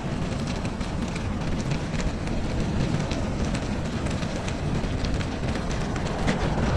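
Steady low rumble of wind and riding noise on a moving bicycle's microphone, with light crackling ticks throughout, typical of tyres rolling over packed snow.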